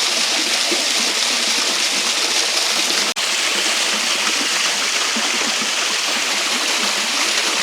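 Waterfall pouring steadily at close range, a dense, even rush of water. The sound cuts out for an instant about three seconds in.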